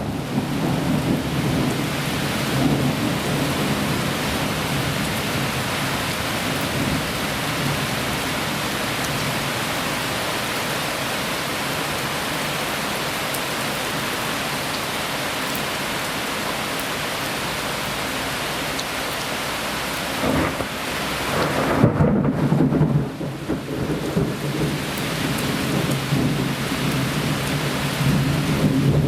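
Heavy thunderstorm rain pouring steadily, with thunder rumbling; a loud thunderclap about twenty seconds in is the loudest moment.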